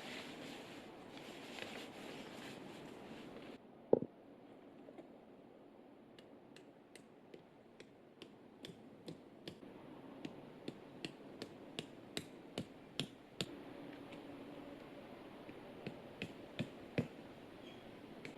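Tent peg being hammered into the ground: one loud strike, then a steady run of sharp knocks, about two to three a second, growing louder, and a few last strikes near the end.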